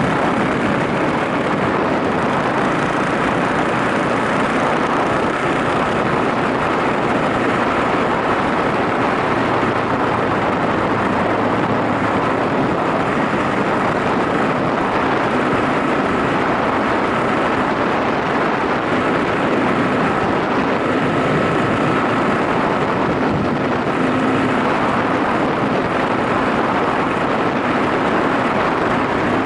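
Yamaha SRX400 single-cylinder motorcycle riding at a steady speed: engine running under a dense, even rush of wind and road noise.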